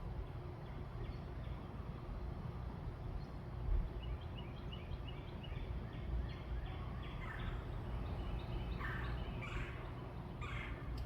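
Birds calling: a quick run of short high notes starts about four seconds in, then louder, harsher calls come near the end, over a steady low background rumble.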